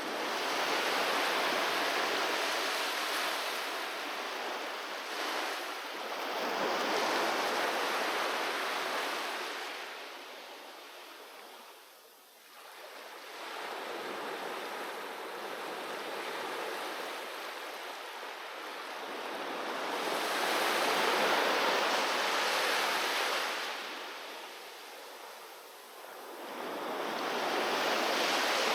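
Sea waves washing onto a beach, the surf swelling and ebbing in repeated surges about every five to seven seconds, with brief lulls between them.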